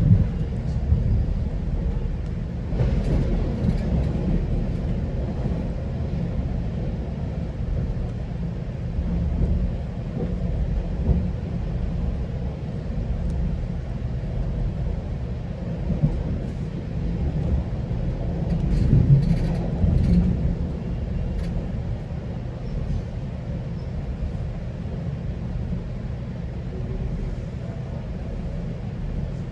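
GO Transit commuter train running along the track, heard from inside a passenger coach: a steady low rumble, with brief clatters about three seconds in and again around nineteen to twenty seconds.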